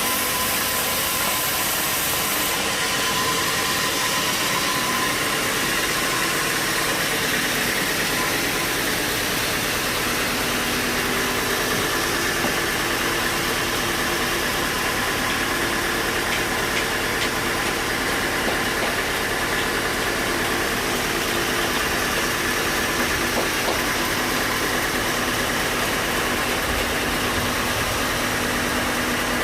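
Sawmill machinery running steadily: a constant mechanical hum with held tones over a broad hiss, the pitch of the tones shifting about ten seconds in.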